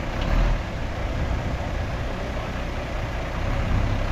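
Heavy diesel engine of earthmoving machinery running steadily, with a brief louder swell about half a second in.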